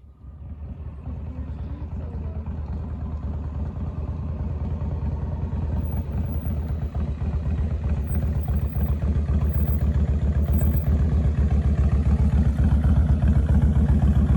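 A vehicle engine idling with a steady low pulse, growing gradually louder.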